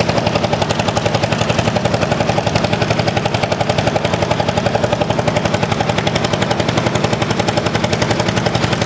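Vintage tractor engine running with a fast, even exhaust beat, several pulses a second.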